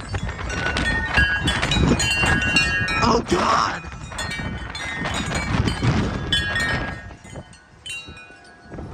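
Wind chimes ringing and clanging in strong, gusting wind, with wind buffeting the microphone. The gust eases off near the end and the chiming thins out.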